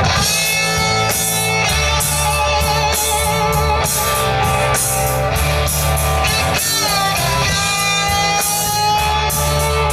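Rock band playing live, an electric guitar carrying the melody in long, wavering notes over a steady bass and regular beat.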